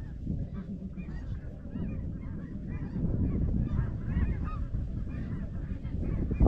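Snow geese calling, many short high honks overlapping without a break, over a steady low rumble.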